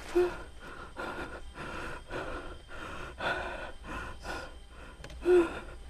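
A person gasping and breathing hard in distress, with quick breaths every half second or so. There is a short high-pitched voiced gasp just after the start and another near the end.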